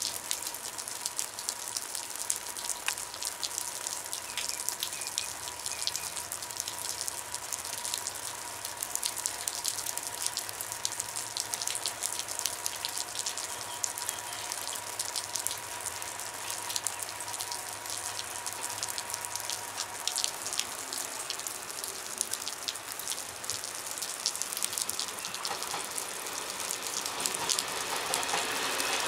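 Steady rain pattering in many fine, rapid ticks, over a faint steady whine that fades out about two-thirds of the way through. Near the end, a Czech class 854 diesel multiple unit comes closer and its running noise grows louder.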